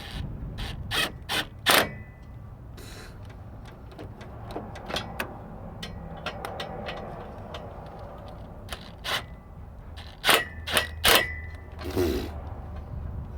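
Irregular metal clanks and knocks of hand tools and exhaust parts being worked under a car, a few with a short metallic ring, in clusters near the start and again about ten seconds in, over a steady low hum.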